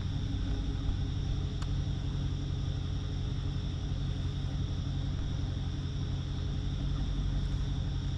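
Hellcat Redeye's supercharged 6.2-litre HEMI V8 running at a steady speed, a low even rumble with no revving.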